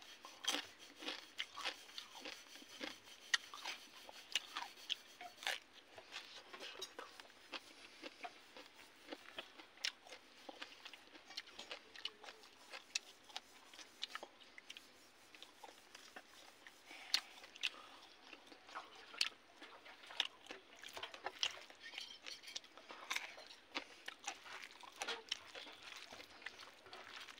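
Close-up eating sounds: a man chewing and crunching mouthfuls of rice and fried fish eaten by hand, with many small, irregular wet clicks and crunches.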